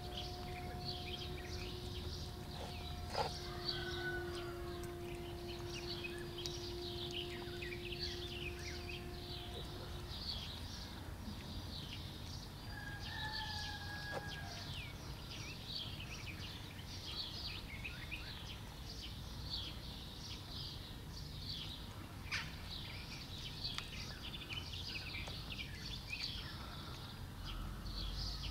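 Birds chirping and singing busily throughout, over a low background rumble. A steady two-note hum runs for about the first ten seconds and then stops, and there are a few brief clicks.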